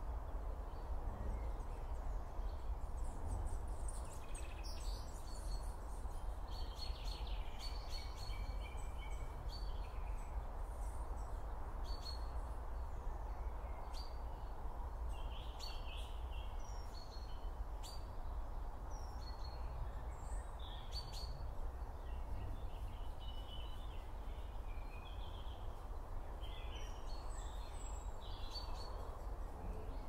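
Wild songbirds chirping and calling in short phrases at irregular intervals, over a steady low rumble and hiss of outdoor ambience.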